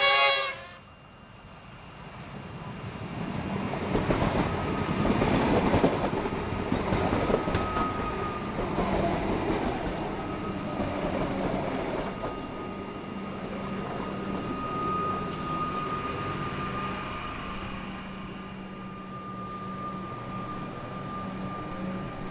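A train horn gives one short toot, then a Comeng electric suburban train approaches and runs past. Its rumble builds to a peak about five seconds in, and a steady high whine continues as the carriages go by.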